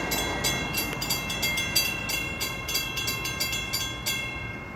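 Mechanical railroad crossing warning bell striking rapidly with a ringing tone, about four strokes a second, over the low rumble of an arriving train. The bell stops about four seconds in.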